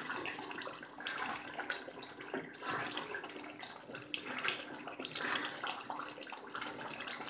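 Beef karahi sizzling and bubbling in its gravy in a steel wok while a wooden spatula stirs it, the meat being fried (bhuna) in its masala over medium heat.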